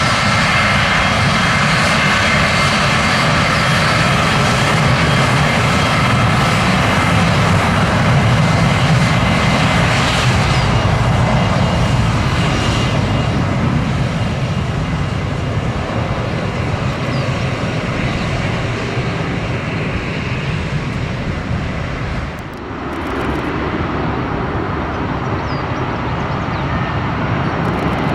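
Jet airliner taking off, its engines at takeoff thrust: a loud, steady rumble with a high fan whine over it for the first dozen seconds. Level drops briefly about 22 seconds in, then the engine noise carries on.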